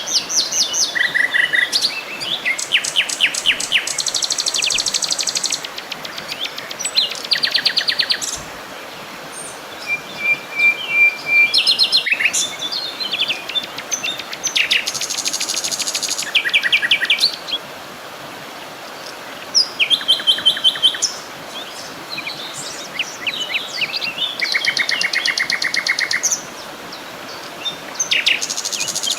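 Several songbirds singing and calling one after another: rapid trills and fast runs of repeated chirps, with a short series of clear, even whistled notes about ten seconds in, over a faint steady hiss of outdoor ambience.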